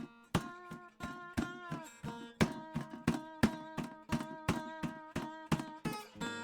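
Acoustic guitar strummed in a steady rhythm, about two strums a second, with a few notes bending down in pitch.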